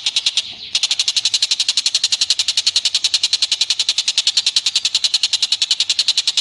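Recorded animal call: a fast, even chatter of short high notes, about a dozen a second, breaking off briefly about half a second in.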